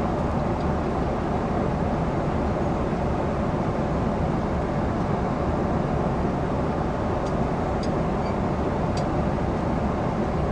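Steady airliner cabin noise, the even rumble and rush of the engines and airflow heard from a passenger seat. A few faint light clicks sound in the second half.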